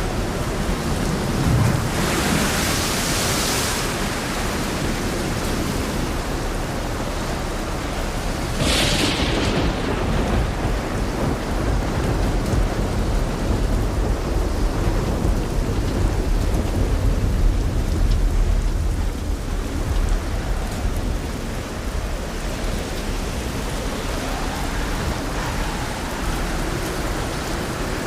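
Thunder rumbling over steady light rain. A deep rumble swells through the middle, and there are two short hissing surges, about two and nine seconds in.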